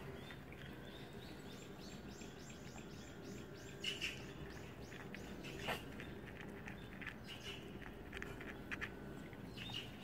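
A bird calling in the woods: a quick run of repeated high chirps, about four a second, over the first few seconds, against a faint steady background.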